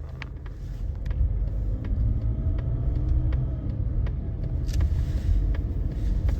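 Steady low road and engine rumble heard from inside a moving car, with a few light clicks and rattles scattered through it.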